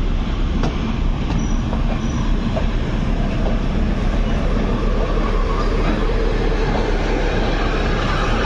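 Steady rumble and rattle of a moving passenger train heard from the window of its coach, wheels running on the track, with a single sharp wheel click a little under a second in.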